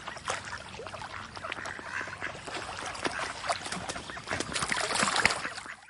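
Ducks quacking, many short calls overlapping throughout, cut off suddenly at the end.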